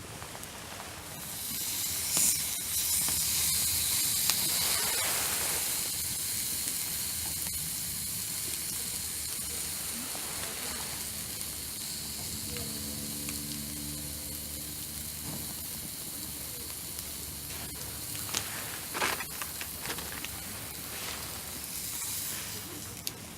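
Food sizzling on a hot barbecue grill: a loud hiss starts about a second in and slowly dies down, with a few clicks near the end.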